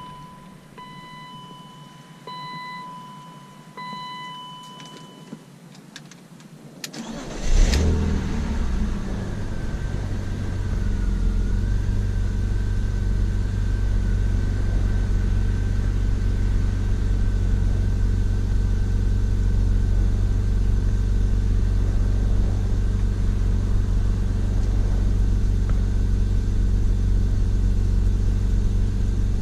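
Four short electronic beeps as the ignition is switched on, then the 1999 BMW E36 M3's straight-six cranks briefly and catches about seven seconds in with a short rev flare. It settles into a steady cold-start idle heard from inside the cabin, with a faint steady whine above the engine.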